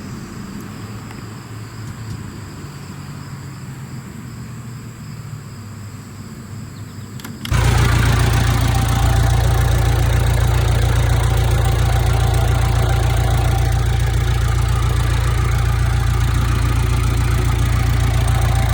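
A low steady hum for about the first seven seconds, then the International Harvester 270A backhoe's diesel engine comes in suddenly and runs steadily.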